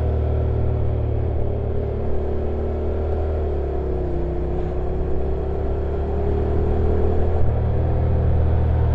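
Stock Honda NC750X's parallel-twin engine running on a downhill ride. The pitch dips slightly and climbs back, and the low engine note shifts about seven seconds in, with steady road and wind noise underneath.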